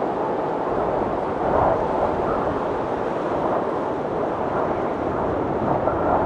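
Snowstorm wind blowing steadily, a dense rush that swells in gusts about one and a half seconds in and again near the end, with a faint thin whistle at times.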